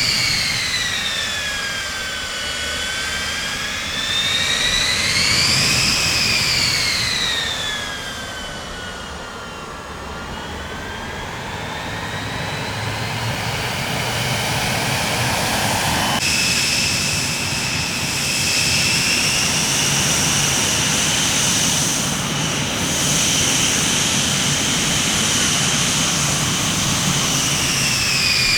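Jet airplane engines whining over a rushing background, the high whine sliding down, back up and down again over the first ten seconds or so. About halfway through it changes abruptly to a steadier whine.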